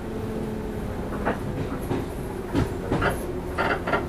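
JR 115 series electric train running: a steady hum of its traction motors and rolling wheels, with a series of clacks as the wheels cross rail joints from about a second in.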